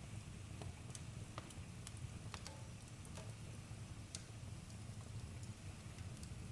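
Campfire crackling: scattered sharp pops and snaps from burning wood over a steady low rumble of the flames.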